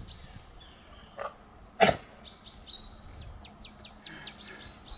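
Birds singing: several high whistled notes, chirps and quick trills. A single short, sharp sound cuts in a little under two seconds in.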